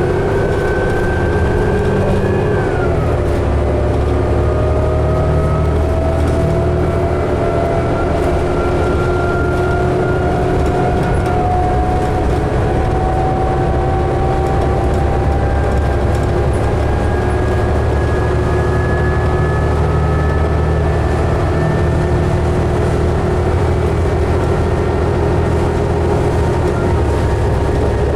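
Inside a 2011 New Flyer D60LFR articulated diesel bus under way: a steady engine and driveline rumble with a whine that climbs slowly as the bus gathers speed and drops back twice as the automatic transmission shifts up.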